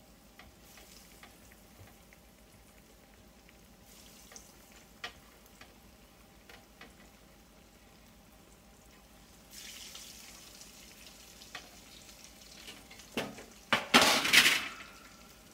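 Cornmeal-breaded green tomato slices frying in hot peanut oil in a cast-iron skillet: a steady sizzle with scattered small pops that swells each time another slice is laid in. Near the end a few loud knocks and a short, loud rush of noise stand out above the sizzle.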